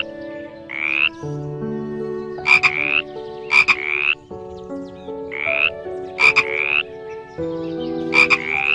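Short croaking calls repeating every second or so, each rising in pitch, over sustained tones that shift pitch in steps.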